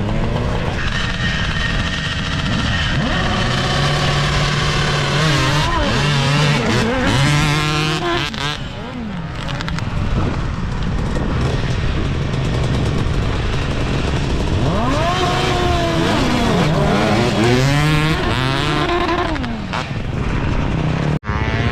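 Off-road motorcycle engines racing, revving up and falling back over and over as the bikes accelerate, shift and brake around the track. The sound cuts out sharply for a moment near the end.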